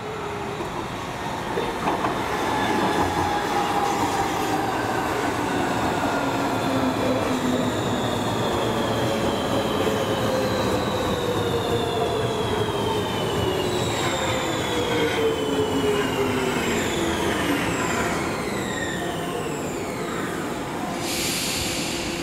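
Bombardier MG2/1 metro train running through the station, its motors giving several whining tones that slide slowly down in pitch over the rumble of the wheels.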